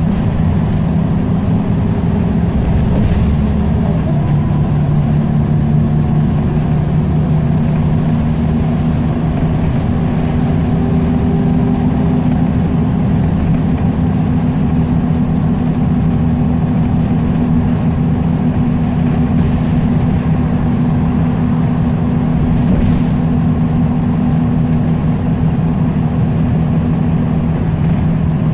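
Scania L94UB single-deck bus's diesel engine running steadily, a low constant drone with only small shifts in pitch.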